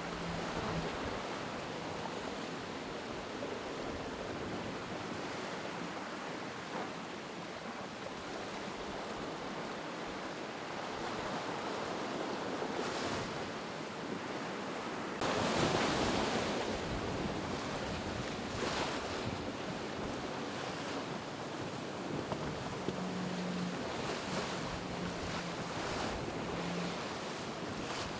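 Sea rushing past the hull of a racing yacht under sail, with wind noise on the microphone; the rush swells to its loudest about halfway through.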